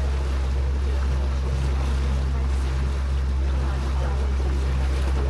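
Sightseeing river boat's motor running with a steady low drone, with water and wind noise over it.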